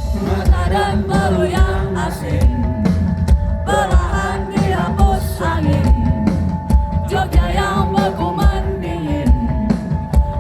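A rock band playing live, with a singer's voice gliding over a steady drum-kit beat.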